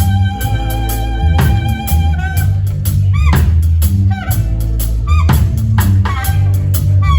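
Saxophone playing a solo over a drum kit and bass groove: a long held note that ends about two seconds in, then short phrases with notes that bend up and down.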